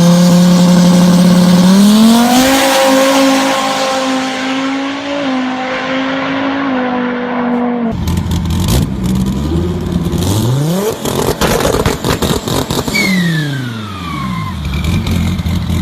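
Twin-turbo Dodge Viper V10 at hard throttle, its note climbing and then stepping as it shifts. About halfway through, the sound cuts abruptly to a fast car passing by, its pitch rising and then falling away as it goes.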